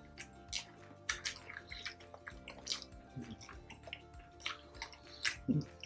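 Close-miked wet chewing and lip-smacking from two people eating with their hands: many short, sharp smacks and clicks, over quiet background music.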